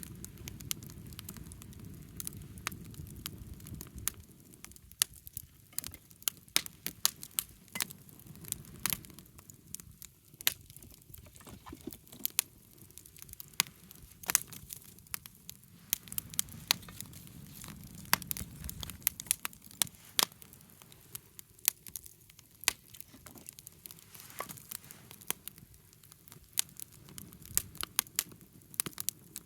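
Wood campfire crackling, with frequent irregular sharp pops from burning wood and a low rumble that comes and goes.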